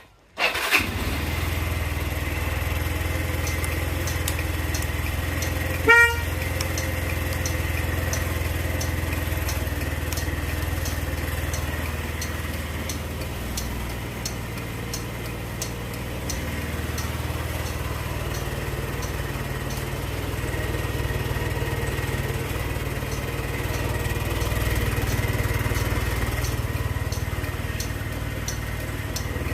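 Yamaha Majesty 125 FI scooter's single-cylinder four-stroke engine starting, catching within a second, then idling steadily. About six seconds in, the horn sounds once, briefly. A faint regular ticking runs under the idle.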